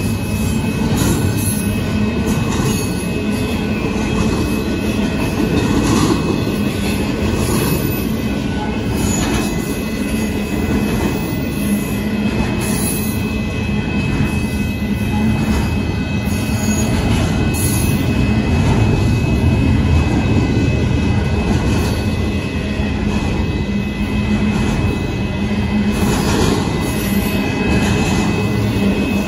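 Union Pacific double-stack intermodal train rolling past, its cars on the rails making a steady low rumble with a thin, steady high tone over it.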